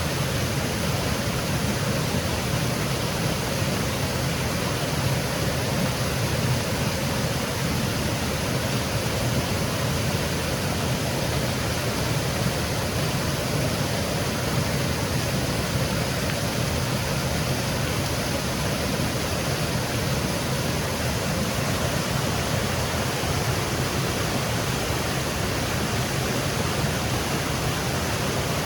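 Small woodland waterfall cascading over rocks: a steady, even rush of falling water.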